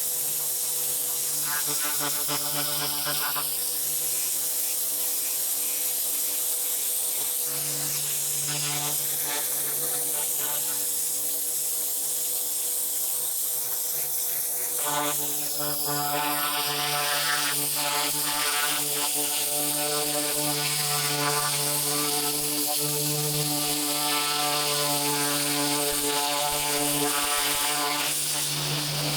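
Pressure washer running steadily, its motor and pump humming with a high hiss of the water jet over it. About halfway through, the hum gets fuller, with stronger overtones.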